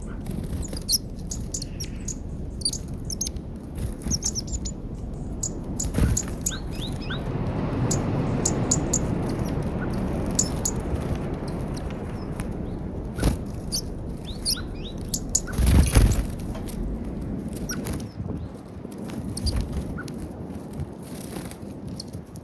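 Small songbirds chirping and twittering at a bird feeder, with a few sharp knocks, the loudest about two-thirds of the way through. A low rushing sound swells and fades in the middle.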